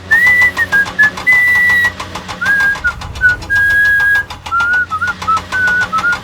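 A whistled tune: one clear note at a time, stepping down between short and held notes, with a fast, even ticking and a low hum underneath.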